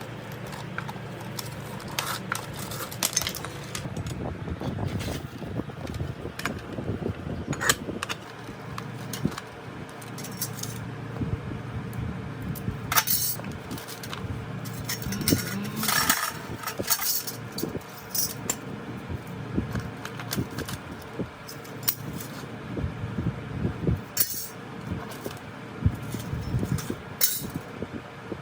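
Irregular clinks and knocks of small metal pieces being handled, over a steady low background noise.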